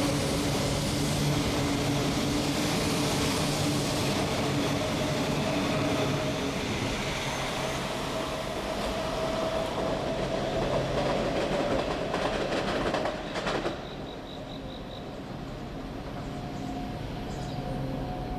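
E4 series Shinkansen train on the move: a steady rumble of wheels on rail with a motor whine that rises slightly in pitch. The sound drops noticeably in loudness about thirteen and a half seconds in.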